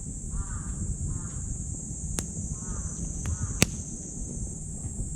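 Wood fire burning in a small titanium wood stove, with a few sharp crackling pops, the loudest about three and a half seconds in. Behind it there is a steady high insect drone, and a bird calls over and over about once a second.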